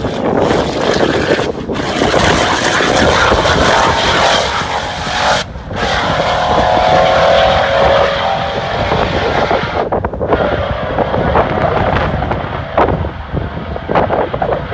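Supercharged 6.2-litre Hemi V8 of a 2016 Dodge Challenger Hellcat converted to E85, at full throttle as the car accelerates away on a half-mile run, its pitch climbing slowly. The sound breaks briefly three times, about two, five and a half and ten seconds in, and thins out toward the end as the car draws off.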